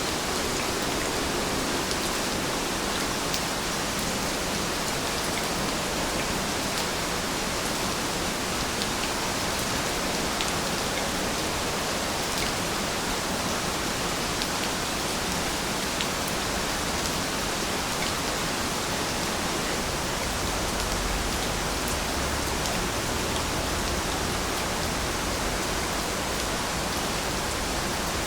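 Steady rain falling, a dense even hiss with scattered individual drop ticks and a brief low rumble about three quarters of the way through.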